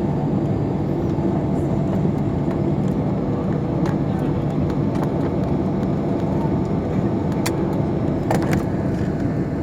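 Airliner engines running, a loud, steady, even drone with a few sharp clicks.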